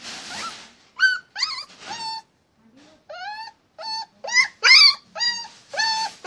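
A dog whining and yipping in a quick series of short, high calls, several sliding up or down in pitch. A brief breathy sound comes first.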